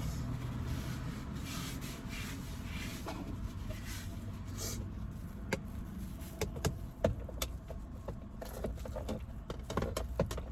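Small clicks and knocks of a kitchen knife and cutting board being handled and wiped clean, scattered over a steady low rumble.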